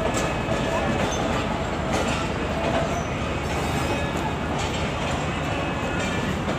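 Express passenger train rolling through the station: a steady rumble of wheels on the track with occasional clicks.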